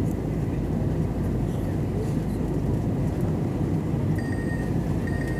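Steady low rumble of an airliner's engines and rushing air, heard inside the passenger cabin during landing, with a faint thin high tone near the end.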